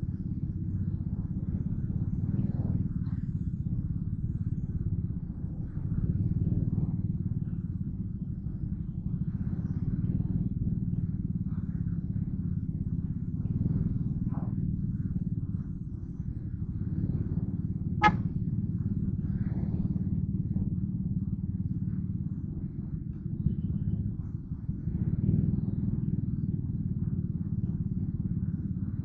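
Yamaha Crypton R underbone motorcycle running at a steady cruise, heard as a muffled, low, steady rumble of engine and wind. One sharp click comes about eighteen seconds in.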